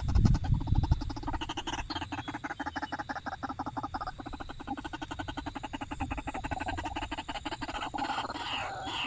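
An animal calling in a fast, even train of pulses, frog-like, keeping up a steady rhythm. A low rumble sounds in the first second.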